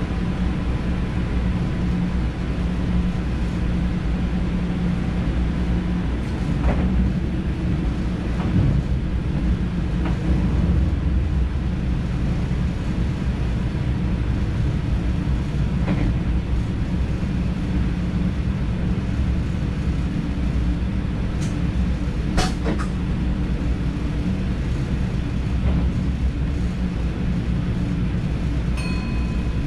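NS DDZ double-deck electric train running along the track, heard from the driver's cab: a steady low rumble with a few sharp clicks, the loudest about two-thirds of the way in. A short electronic beep starts near the end.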